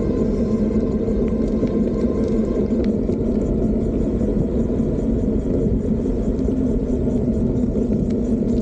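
Steady low rumble of wind on the microphone and tyre noise from a moving electric bike.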